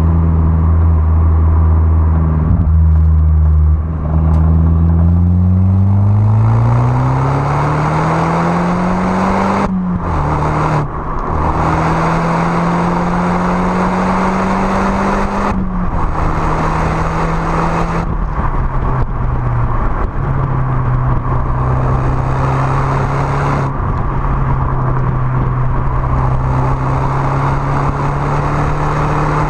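Peugeot 207 RC's turbocharged 1.6-litre four-cylinder engine and exhaust as the car accelerates. The note runs steady, then climbs for several seconds and drops sharply at a gear change about ten seconds in. It climbs again, drops at a second shift around sixteen seconds, and after a further easing off settles at steady revs.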